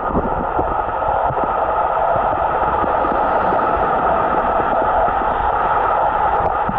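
Steady, muffled underwater noise picked up by a camera dunked below the surface, with no clear high sounds.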